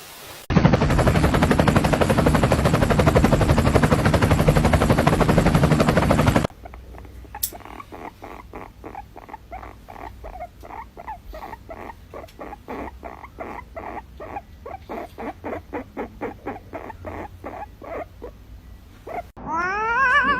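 A loud, rough rushing noise for about six seconds, then a run of short pitched animal calls, about three a second, growing louder. Near the end a cat's wavering meow begins.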